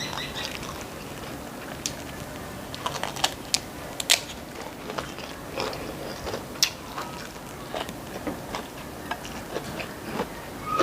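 Person eating: irregular crisp clicks and crunches of biting and chewing food, a few a second.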